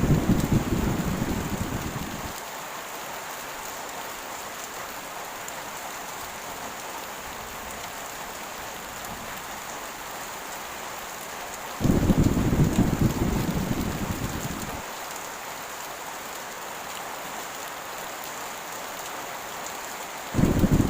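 Heavy rain falling in a steady hiss, broken by deep rolls of thunder. One fades out about two seconds in, another starts suddenly about twelve seconds in and lasts about three seconds, and a third begins just before the end.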